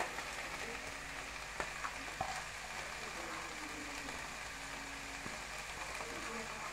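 Oil sizzling steadily in a kadai of frying potatoes as raw drumstick flowers are tipped in from a steel plate, with a couple of light knocks about one and a half and two seconds in.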